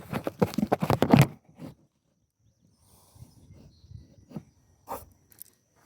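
Close, loud rustling and crunching for about the first second, then quieter scattered rustles and a couple of sharp clicks near the end, over a faint steady high-pitched tone.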